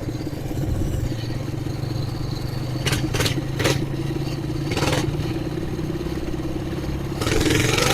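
Coleman BT200X mini bike's single-cylinder engine running steadily on a straight-pipe exhaust while being ridden. A few sharp clatters come about three to five seconds in, and a louder stretch of noise comes near the end.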